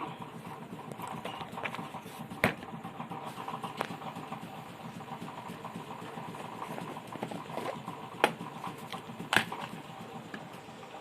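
Scattered sharp clicks and taps of hand tools being worked on a TV circuit board during a component swap, three louder knocks among them, over a faint steady hum.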